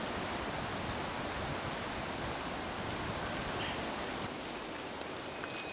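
Steady, even rush of water in wet jungle.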